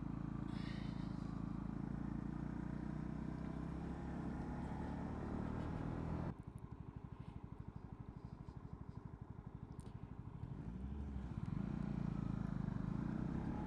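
Honda CB125R's single-cylinder 125 cc engine running under way, then dropping abruptly to a quieter, evenly pulsing idle about six seconds in. Near the end it revs up with a rising note and runs on louder as the bike pulls away.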